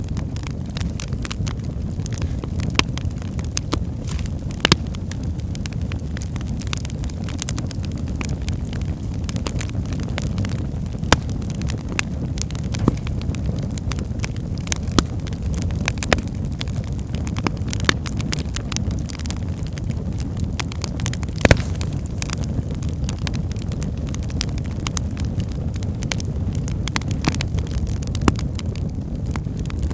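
Wood fire burning in a fireplace: a steady low rumble of flames with irregular crackles and pops from the logs, a few sharper than the rest.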